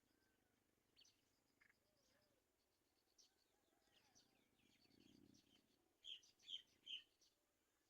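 Birds chirping: a run of faint, quick, high chirps, then three louder short calls about six to seven seconds in.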